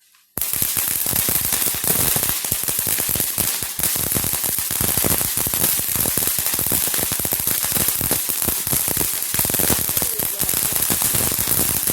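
A string of firecrackers going off: loud, dense, rapid popping that starts abruptly about half a second in and keeps going without a break.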